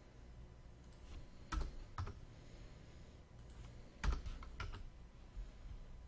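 Computer keyboard typing: scattered key presses, with a few louder clacks about one and a half, two and four seconds in.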